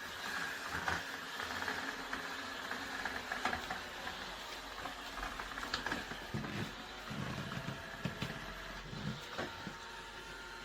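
Xiaomi Robot Vacuum X20 Pro running while it cleans: a steady motor and fan hum with a faint high whine, broken by scattered clicks and low bumps.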